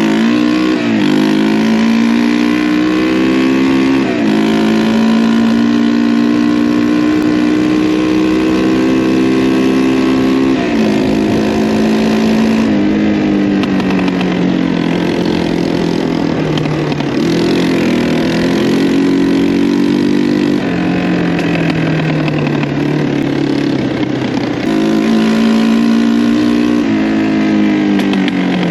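Yamaha 225DX three-wheeler's single-cylinder four-stroke engine being ridden, its pitch climbing as it accelerates and dropping sharply at each of several gear changes.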